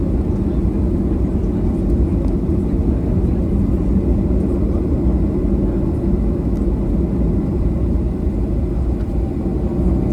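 Boeing 737-800 cabin noise heard from a window seat: a steady, loud, low rumble of its CFM56-7B jet engines and the airflow past the fuselage.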